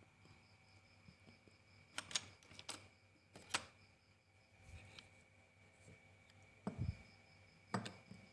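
A handful of sharp clicks and taps from a Zippo lighter and its small parts being handled during a camspring repair, clustered in two groups, with one duller knock in the second group. Crickets chirp faintly in the background.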